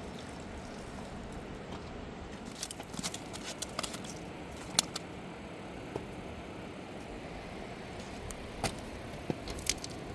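Steady rush of a fast-flowing river, with scattered small clicks and taps over it and one sharper knock about five seconds in.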